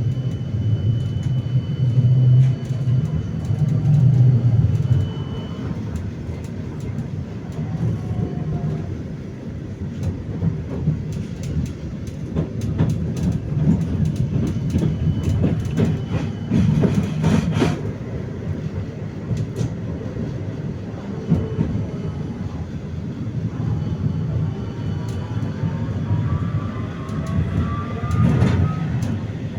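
Vityaz-M (71-931M) tram running along the rails: a steady low rumble of wheels on track with scattered knocks and a louder clatter about halfway through. Near the end comes a rising whine from the IGBT-controlled traction drive (ATD-10U1 motors) as the tram picks up speed.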